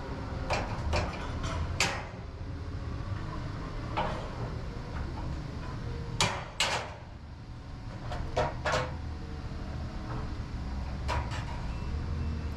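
Irregular short knocks and clacks, a few in quick succession at a time, like objects being handled or doors and latches being shut, over a steady low hum.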